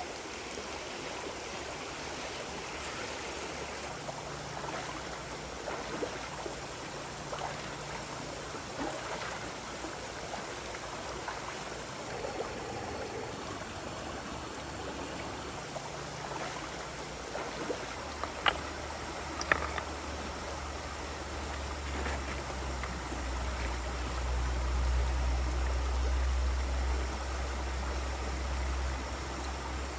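A stream flowing steadily. Two sharp clicks come a little past halfway, and a low rumble rises under the water over the last third.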